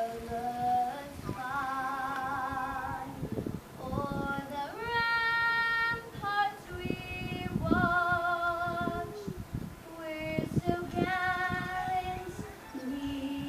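A female voice singing the national anthem solo, holding long notes with vibrato.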